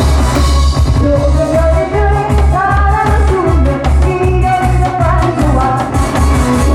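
A woman singing live over a loud amplified backing track with a strong pulsing bass beat, pop-style Korean song.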